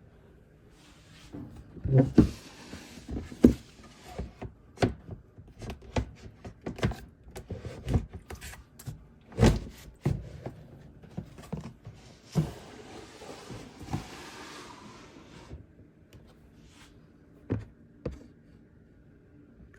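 Irregular knocks and clunks, about fifteen, the loudest about two and nine seconds in, with two spells of rustling noise between them.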